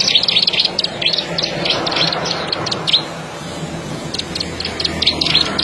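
Ciblek sawah (a rice-field prinia) singing: fast, high-pitched runs of clicking notes that break off about halfway through and start again near the end.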